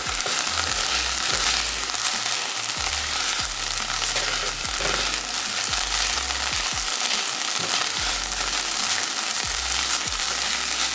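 Diced onion and garlic sizzling steadily in a hot pan as they sauté and caramelize, with a few short knocks scattered through.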